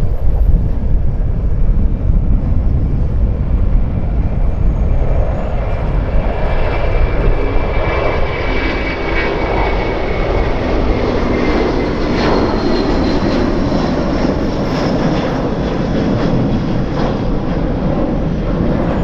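Jet airliner engines passing close by: a continuous low rumble, with a whine and hiss that build from about six seconds in, and a high tone that slowly falls in pitch.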